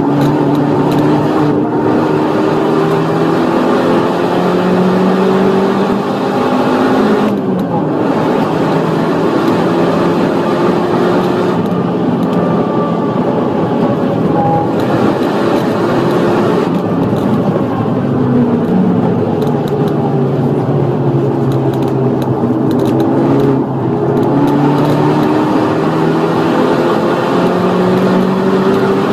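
Opel Astra H OPC's turbocharged 2.0-litre four-cylinder, heard from inside the cabin, pulling at full throttle. Its note climbs with the revs and drops briefly at the gear changes.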